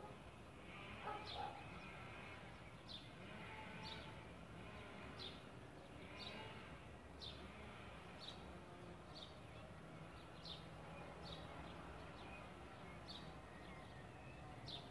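A bird repeating a short, high, downward-slurred call about once a second, faint over a low steady background hum.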